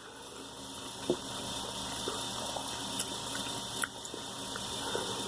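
Steady hiss-like noise with a few light clicks, as of chopsticks or a spoon against a ramen bowl while eating.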